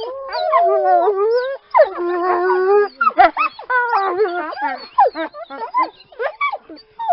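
A pack of wolves howling in chorus: several howls overlap, each gliding up and down in pitch, with shorter, sharper calls mixed in from about three seconds in.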